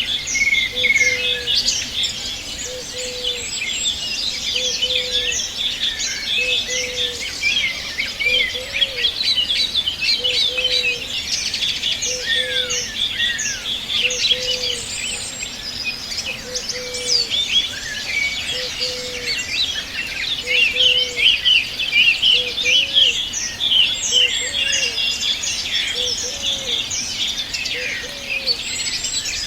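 Dense chorus of many small songbirds chirping and trilling at once, with a short low note repeating steadily about every second and a half underneath.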